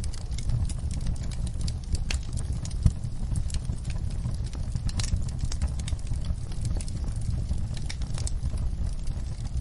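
Wood fire burning in a fireplace: irregular crackles and pops over a steady low rumble of the flames, with one louder pop about three seconds in.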